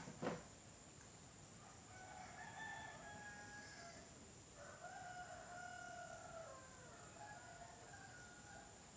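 Faint, drawn-out crowing calls from a bird, a few seconds long, with one short sharp call just after the start.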